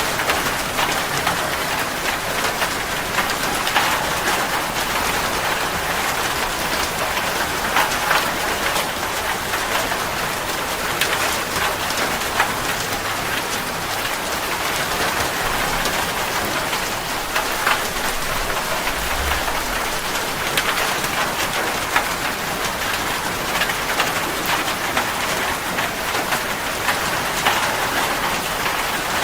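Steady rain falling on a surface, an even hiss dotted with the ticks of individual drops, with a brief low thump about two-thirds of the way through.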